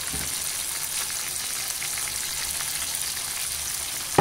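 Chicken pieces frying in a pan: a steady sizzle.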